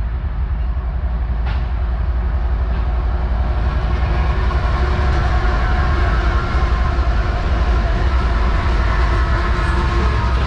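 Long freight train's cars rolling past at trackside: a loud, steady rumble with faint steady tones riding over it.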